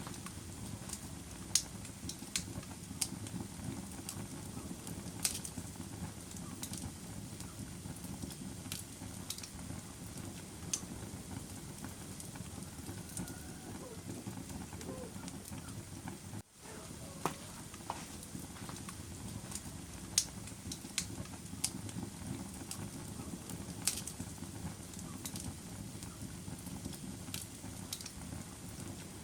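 Wood fire burning in a fireplace: a steady low rumble of flames with sharp crackles and pops at irregular intervals. The sound drops out for a split second about halfway through.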